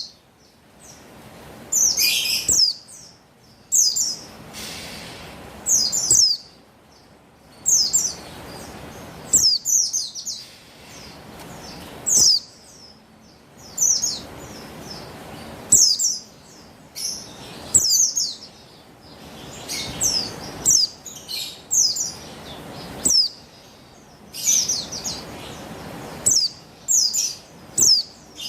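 Female buxtoni white-eye (pleci) giving short, high chirping calls in quick bursts about every one to two seconds, with a faint hiss between them. These are calls used as a lure to stir male white-eyes into song.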